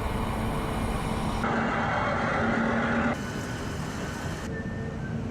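Steady machinery hum on a ship's deck, with a brief louder hiss in the middle.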